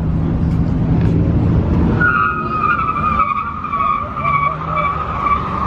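A car engine running hard under load, then tyres squealing in one long, steady screech from about two seconds in: a car doing a burnout.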